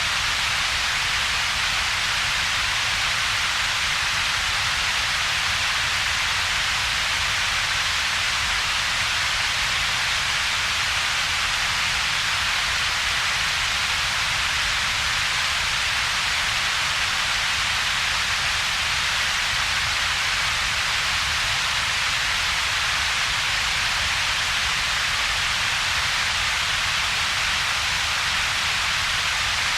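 Steady synthetic double-peaked noise: an even hiss centred in the upper mid range, with a weaker low rumble beneath and little in between, unchanging throughout.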